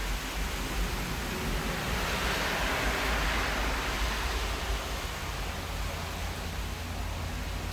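Steady rain falling, an even hiss that swells for a couple of seconds about two seconds in, with a low rumble underneath.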